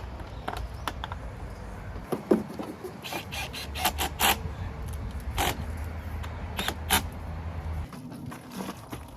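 A series of sharp clicks and knocks, several in close runs, over a low steady hum that drops out about two seconds in and again near the end.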